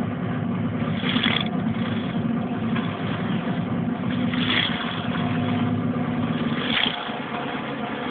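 Slot cars running on the track, their small electric motors making a steady buzzing hum, with a brighter, higher whine three times as cars come through.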